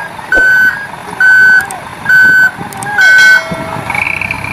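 Dump truck's reversing alarm beeping: four steady high-pitched beeps, about one a second, stopping after the fourth.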